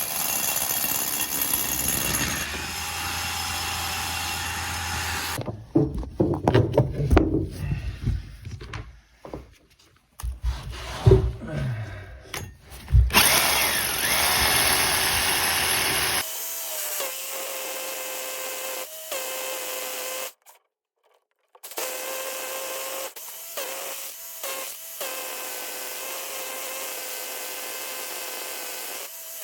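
Power drill running in several separate stretches, with irregular knocking and scraping between them.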